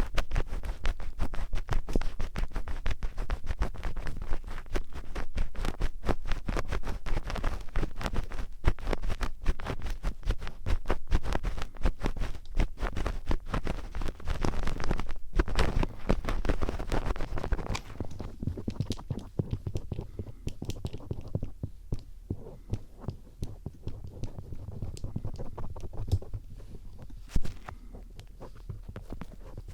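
Ear-cleaning ASMR: the tip of a star-head screwdriver scratching and scraping close to the microphone in dense crackling strokes, which turn quieter and sparser after about eighteen seconds.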